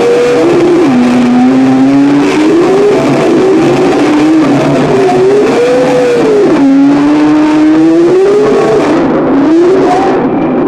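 Harsh noise music: a loud, dense wall of distorted noise with a single sliding tone that dips low about a second in, then climbs and falls in slow arches. Near the end the hiss at the top thins out.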